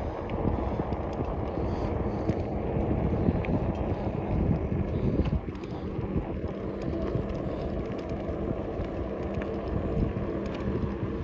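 Wind rushing over the microphone on a moving 26-inch fat-tire e-bike, with a steady low hum from the bike rolling along.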